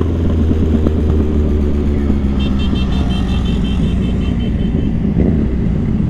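Motorcycle engine running steadily under way. About two seconds in, a quick series of short high beeps, around five a second, goes on for a couple of seconds.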